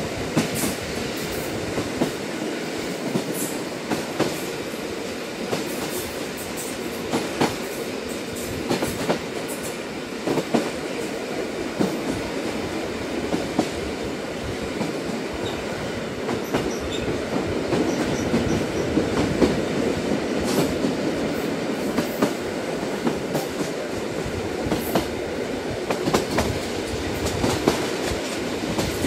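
Train running along the track: a steady rumble with sharp wheel clicks and knocks scattered through it at irregular intervals.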